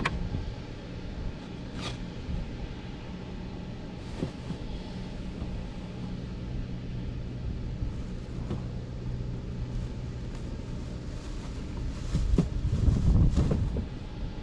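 Steady low rumble and hum, with a louder low gust of wind on the microphone about twelve seconds in.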